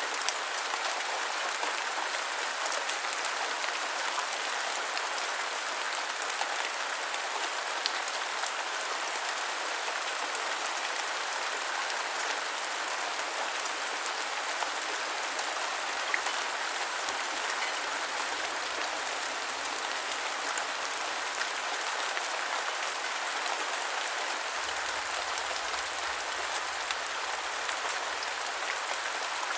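Steady rain falling: an even hiss with little low rumble, broken by a few louder single drop taps.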